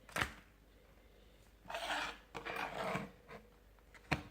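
Light handling noises on a workbench: a click at the start, soft rubbing in the middle, and a sharp tap near the end.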